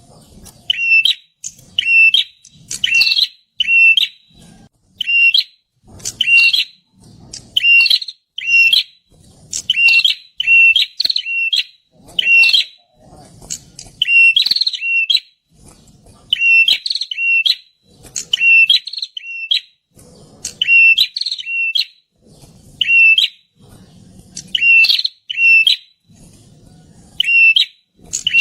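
A prinia calling loudly: short, sharp, high notes repeated about once a second, often in quick pairs or triples.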